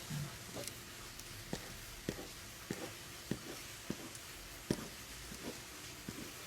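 Short, quick drawing strokes on paper, about one every half second or so, as feathers are drawn onto a paper bird.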